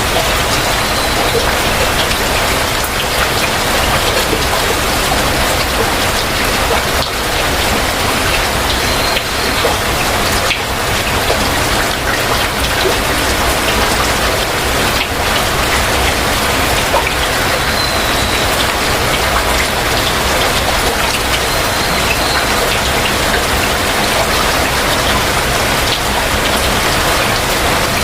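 Heavy rain falling steadily, a dense even hiss of drops. A few brief high bird notes come through it every several seconds.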